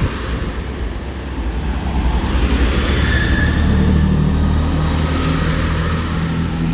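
Diesel engines of a Chiltern Railways class 165 diesel multiple unit running under power as the train moves off. Its steady low drone grows stronger about halfway through.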